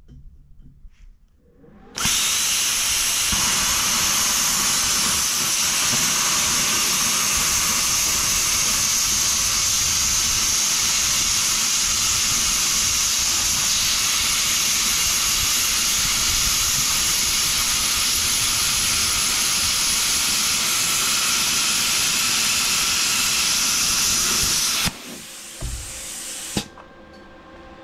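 Plasma cutter cutting thick steel plate: a loud, steady hiss that starts about two seconds in and cuts off near the end, followed by a softer hiss for a second or so.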